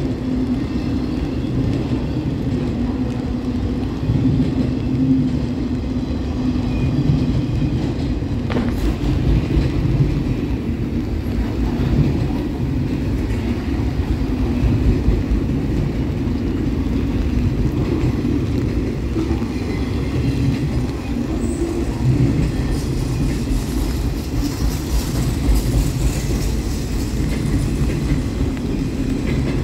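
Canadian National mixed freight train's cars (autoracks, a covered hopper, tank cars) rolling past at steady speed: a continuous rumble and rattle of steel wheels on the rails. There is one sharp click about nine seconds in.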